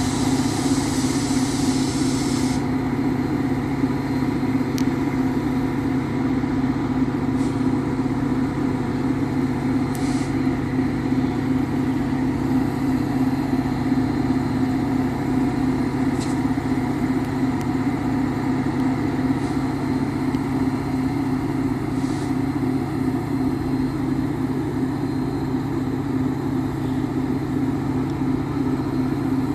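Diesel locomotive of a stopped Metra commuter train running steadily at idle, a constant drone with a few faint clicks.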